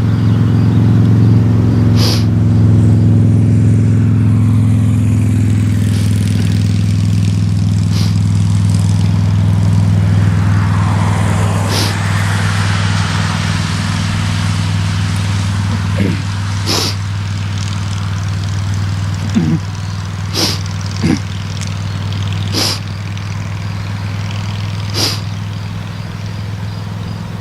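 Diesel locomotive engine running with a steady low drone, with sharp clicks every few seconds.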